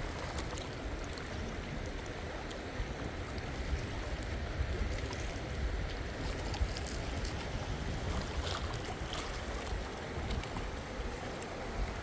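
Strong wind buffeting the microphone, a steady low rumbling rush, over washing water, with scattered small clicks.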